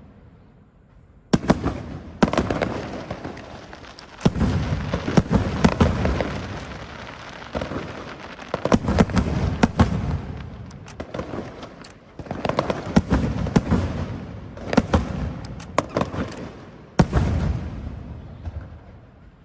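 Fireworks going off in repeated volleys: sudden clusters of booms and sharp crackling every few seconds, each fading out before the next starts.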